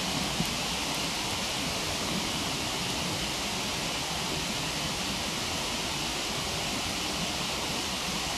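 Steady rushing of a waterfall, with a single faint crack from the wood fire about half a second in.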